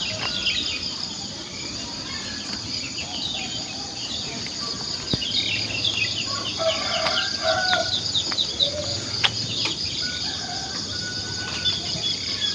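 Morning countryside ambience: many birds chirping and calling over a steady high-pitched insect drone, with a few lower calls about halfway through.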